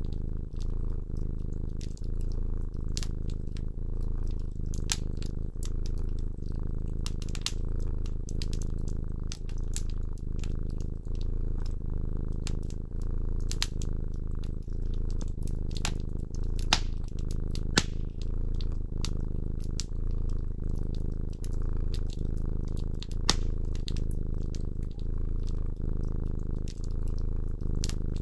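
Domestic cat purring steadily in a low, rhythmic rumble that swells and eases with each breath, with wood-fire crackles: scattered sharp pops and snaps, a few louder than the rest.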